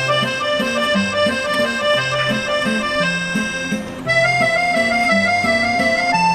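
Accordion playing an instrumental interlude of a yodel song: a melody of held notes over a steady rhythm of bass notes and chords.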